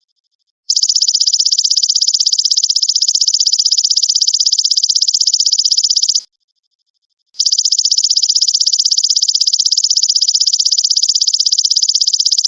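Belalang emas (golden grasshopper) insect calling: a loud, very fast pulsing high buzz in two long bouts of about five seconds each, with a one-second pause between them.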